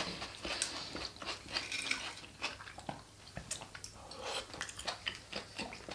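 Close-miked chewing and wet mouth sounds of people eating Greek salad: irregular crisp clicks and smacks, with a fork picking at the salad at the start.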